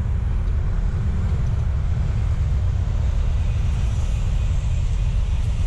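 High-speed bullet train passing, a rushing hiss that builds from about halfway through. Under it is a steady low wind rumble on the microphone.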